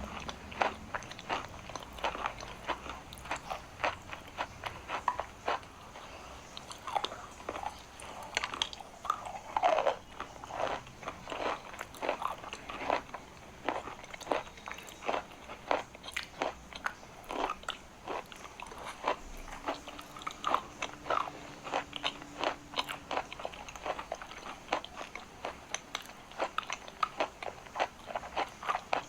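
Close-up crunchy bites and chewing of hard pressed chalk, a string of sharp, irregular crunches, one or two a second.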